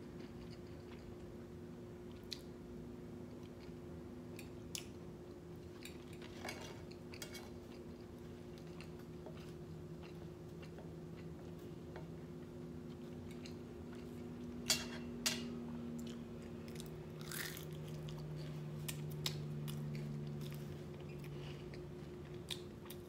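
Close-miked chewing and mouth sounds of a man eating blood sausage, with scattered sharp clicks and a steady low hum behind.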